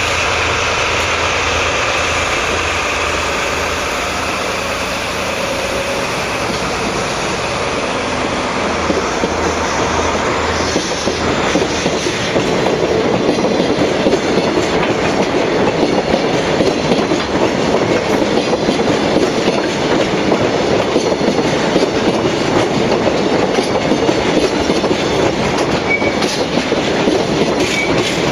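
JNR Class DD51 diesel-hydraulic locomotive running past with a freight train. For about the first twelve seconds its engine throb and a higher whine are heard. Then the freight wagons roll by with a steady, rapid clatter of wheels over the rails.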